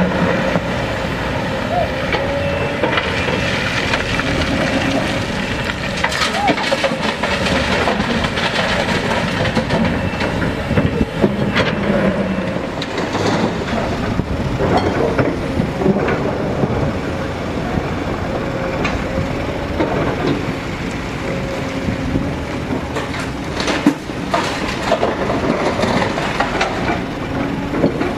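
Heavy machinery at work: a diesel engine running steadily with irregular metallic clanking and rattling throughout.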